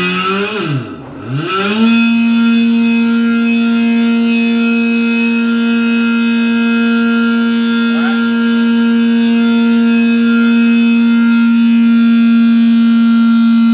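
Electric slurry pump starting up: its pitch rises, sags and climbs again over the first two seconds, then settles into a loud, steady hum with a whine.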